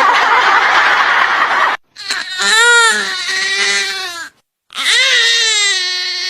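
Infant crying: a harsh, noisy cry for the first couple of seconds, then two long wailing cries, each falling in pitch, with a breath between them. It is given as an example of the 'eairh' cry, which in this system is the sign of lower gas or wind the baby needs to pass.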